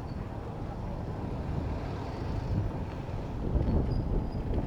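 Wind buffeting the microphone of a camera on a moving bicycle, over a steady low rumble of city traffic.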